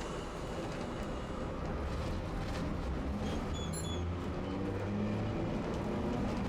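Tosaden streetcar running along its tracks: a steady low rumble with a faint humming tone that drifts a little in pitch.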